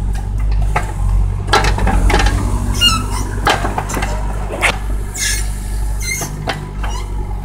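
Excavator's diesel engine running steadily under a string of scattered metallic knocks and clanks as the machine works.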